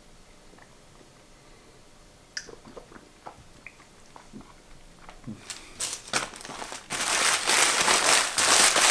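Sandwich wrapper paper being crumpled, loud and crinkling from about halfway in. Before it come faint chewing and small mouth clicks.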